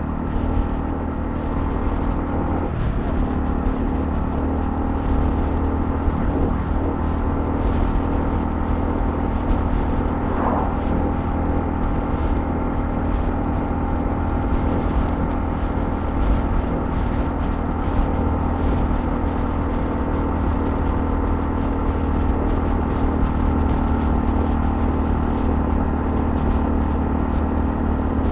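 Honda CL250 motorcycle engine running steadily while riding at an even cruising speed.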